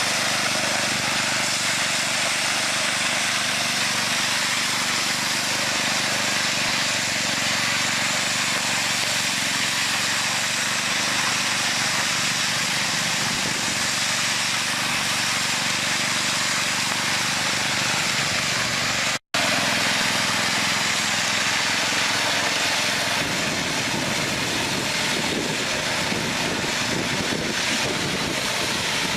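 An engine running steadily under a broad hiss. The sound drops out for an instant about 19 seconds in.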